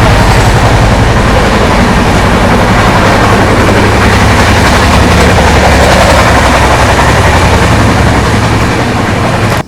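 Passenger express train running at speed, heard from on board: a loud, steady rumble of wheels on rails with a low drone underneath. It drops off abruptly at the very end.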